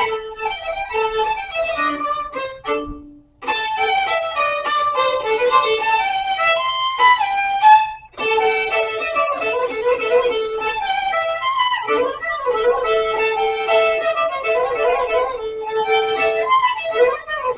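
Violin playing a fast run of melody notes, with two brief breaks about three and eight seconds in.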